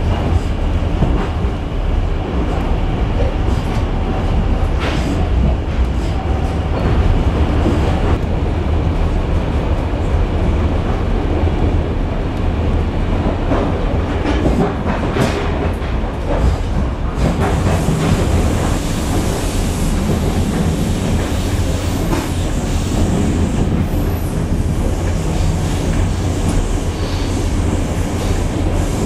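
Passenger train running along the line, heard from inside a coach: a steady rumble of wheels on rails with occasional clacks, and a brighter hiss coming in after about the middle.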